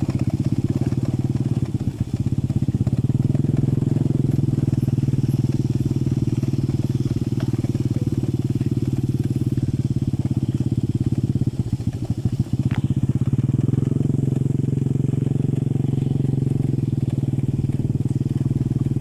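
A small engine running steadily with a fast, even firing pulse, its revs rising a little twice.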